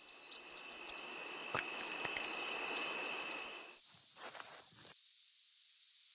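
Crickets trilling in one steady, unbroken high note, a night-forest ambience. A softer rustling hiss underneath fades out about four to five seconds in, leaving only the trill.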